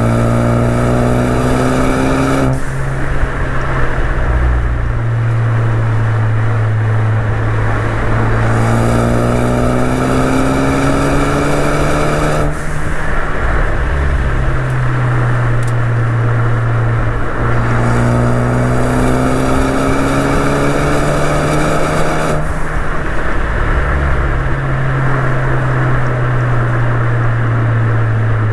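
Ford Focus ST's turbocharged four-cylinder engine pulling under throttle three times, each pull a slow rise in pitch lasting about four seconds that ends abruptly. Between the pulls there is a steady engine drone with road and wind noise.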